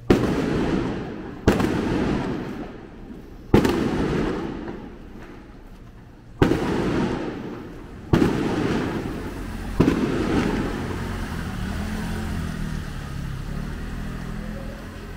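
Six loud fireworks bangs, one every one and a half to three seconds, each trailing off in a long rumble.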